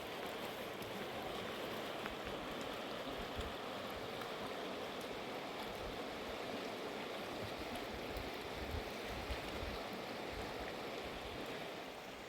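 Mountain river water rushing steadily, an even wash of flowing water.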